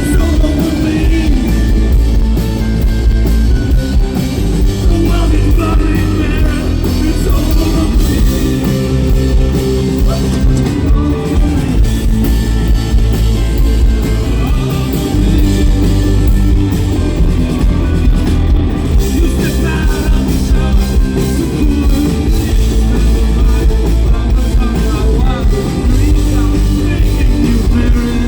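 Rock band playing loudly and continuously, with electric guitars, bass and a drum kit.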